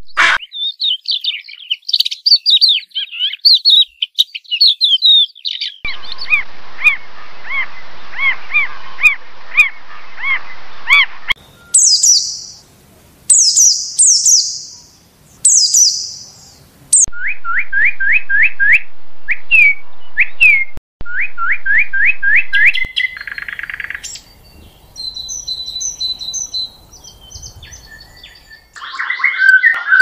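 Several different birds singing and calling one after another, each in its own short recording. First come quick high chirps, then a run of evenly repeated notes, then short high-pitched phrases, then fast rising whistled notes, and near the end a louder, lower call.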